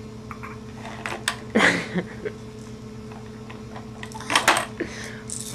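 A steady mechanical hum, with toy pieces clattering and knocking in a few short bursts: once at about a second and a half in, and again near the end.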